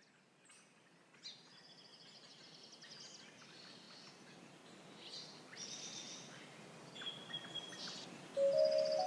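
Small birds chirping and singing in short trills and whistles over a faint steady outdoor background, fading in from silence. Near the end, chime-like music notes come in.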